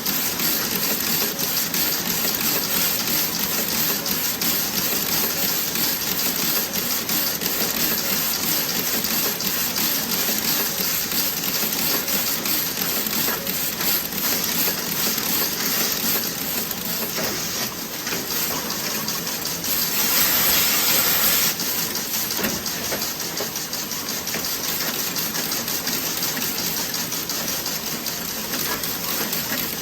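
Toe-sock knitting machine running: a dense, rapid mechanical clicking over a steady hiss, with a louder hiss lasting a second or two about two-thirds of the way through.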